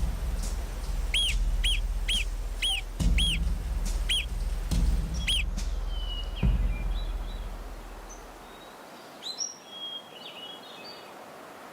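Marmot giving a run of nine sharp alarm whistles, about two a second, each rising and falling in pitch, over a low rumble. Fainter, shorter chirps follow near the end.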